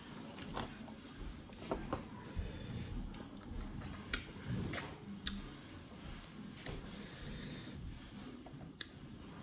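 Close-up eating sounds: chewing and gnawing at food, with low rubbing and rustling and a few sharp clicks and taps.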